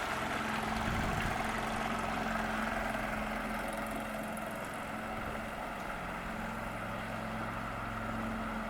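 A motorboat's engine running steadily, a constant hum under a wash of noise.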